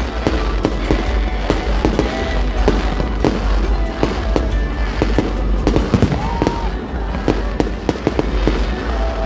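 Fireworks display: a dense, continuous run of sharp bangs and crackles, many per second, over a steady low rumble, with music playing underneath.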